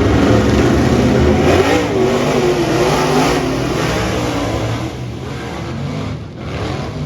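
Dirt-track modified race cars running on the track, their engines revving up and down. The sound is loudest over the first four seconds or so and eases somewhat after about five seconds.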